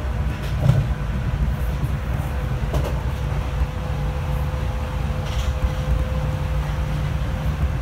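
Running noise inside a Class 465 electric multiple unit on the move: a steady low rumble of wheels on the rails under a thin steady whine that grows stronger about halfway through. There are a couple of faint knocks in the first few seconds.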